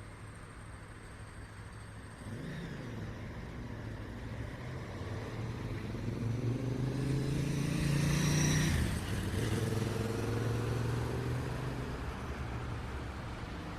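Street traffic: a car approaches and passes close by, loudest about eight or nine seconds in, its engine note dropping in pitch as it moves away, over a steady low traffic hum.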